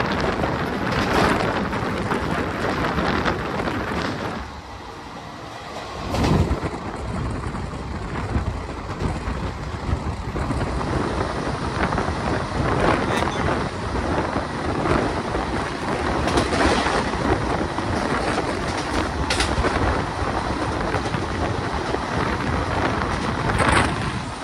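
Running noise of an Indian Railways passenger train heard from on board: a steady rushing rumble with scattered sharp knocks. The noise drops briefly about four seconds in and returns with a loud knock a moment later.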